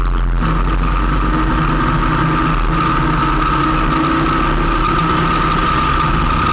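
Motorcycle engine running steadily while riding along at an even speed, with a steady high-pitched whine over it.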